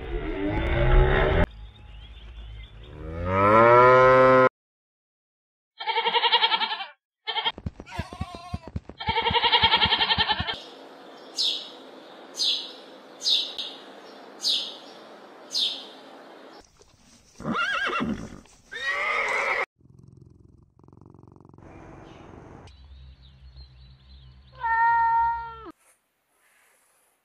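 A run of animal calls: Holstein calves mooing, then a house sparrow chirping, six short high chirps about a second apart, then a cat meowing once near the end. Other animal calls fall in between.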